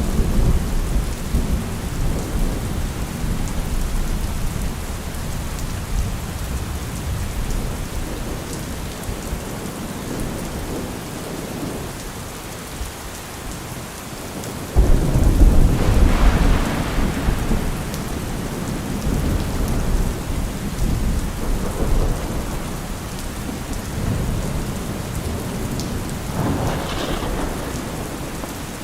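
Steady rain falling during a thunderstorm, with low rolling thunder. About halfway through a loud thunderclap breaks in suddenly and rumbles away over a few seconds, and a smaller roll of thunder comes near the end.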